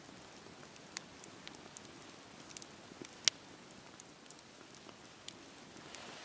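Wood campfire crackling: a soft steady rush broken by scattered sharp pops and snaps, with one much louder pop about three seconds in.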